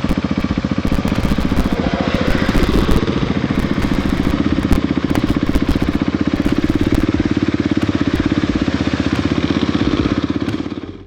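Motorcycle engine running steadily with a fast, even pulse, close to the microphone.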